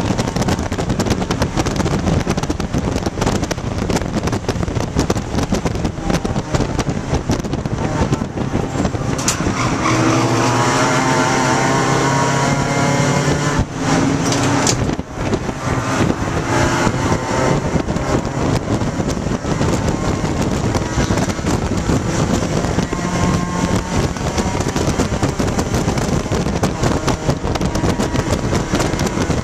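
In-cabin sound of a 1995 Dodge Neon ACR race car at speed. Its four-cylinder engine pulls hard under wind and road noise. About halfway through the engine note changes, with two brief sharp drops in level a second apart.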